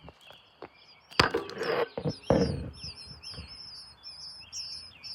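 Baby birds in a nest chirping, a fast run of high, thin calls at about three or four a second that keeps up once it starts. Two loud rustles come early, about a second in and again past two seconds.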